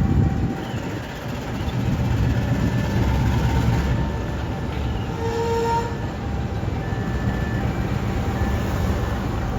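Diesel-hauled train running past, a steady low rumble of the engine and rolling wheels, with a brief higher tone about five seconds in.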